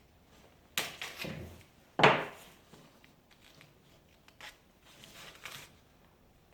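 Wood being handled on a workbench: a clattering knock about a second in and a louder, sharper knock at two seconds, then faint rubbing near the end.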